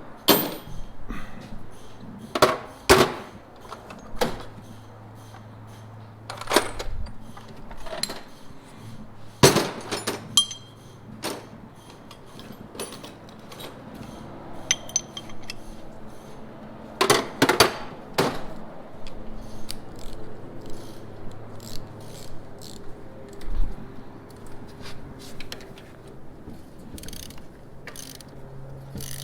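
Hand tools clicking and clanking on metal as bolts are worked in to join a transmission to an engine block: irregular sharp clicks and knocks, with a few louder clanks.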